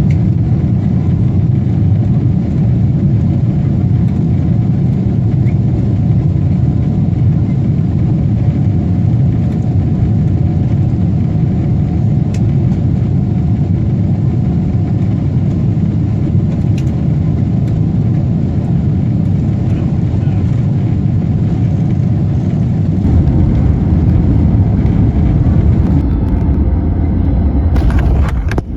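Steady, loud, low rumbling vehicle noise, running continuously and growing deeper about 23 seconds in.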